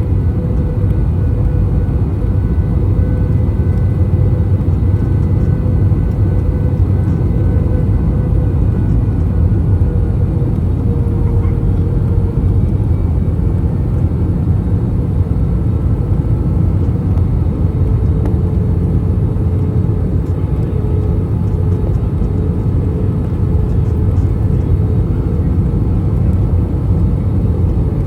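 Cabin noise of an Airbus A321 on final approach: a steady, loud low rumble of airflow and its IAE V2533 turbofan engines, with faint engine hums that drift slightly in pitch as the thrust is adjusted.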